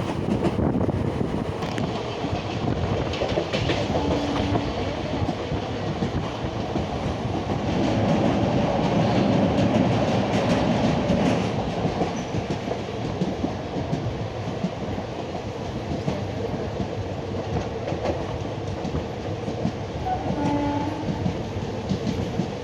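Passenger train running on the rails: a steady rumble with clatter from the wheels, growing louder about eight to eleven seconds in.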